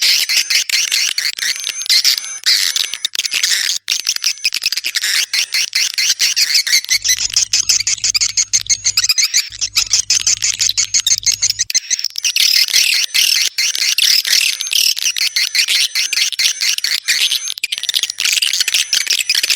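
Swiftlet calls, a swiftlet lure track of the kind played to draw edible-nest swiftlets into a nesting house: a dense, continuous stream of rapid, high-pitched twittering chirps and clicks.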